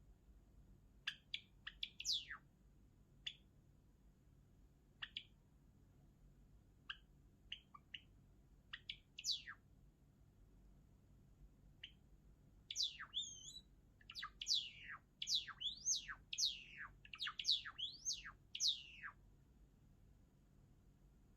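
Java sparrow singing: scattered short chirps for the first half, then a quicker run of falling notes that builds into its song about two-thirds of the way in.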